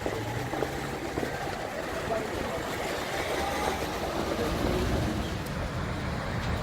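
Street traffic running steadily, with people talking faintly.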